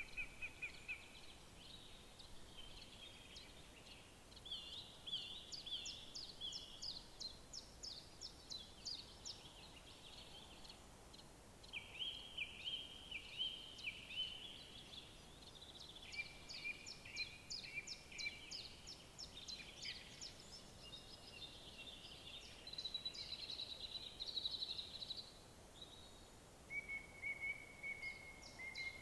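Several wild songbirds singing in overlapping phrases of quick repeated notes and short trills, over a faint steady background hiss.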